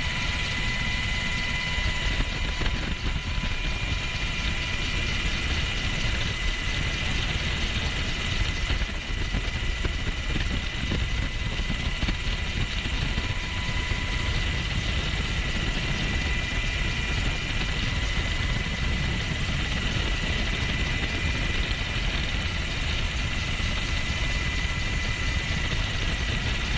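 Military aircraft's engines heard from on board: a steady drone with a low rumble and a thin, even high whine.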